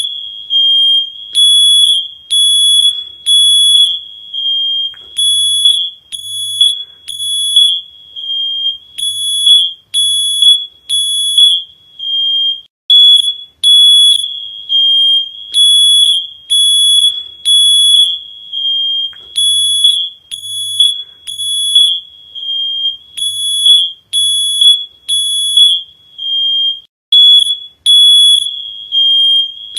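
Smoke alarm sounding: a loud, high-pitched electronic beep repeating about once a second with short gaps, joined by fainter, higher beeps in clusters.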